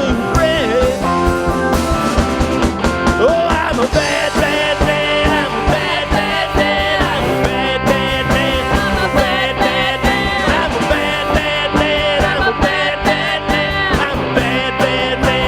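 Live rock band playing an instrumental passage between sung lines, with a steady beat and bending, wavering lead notes.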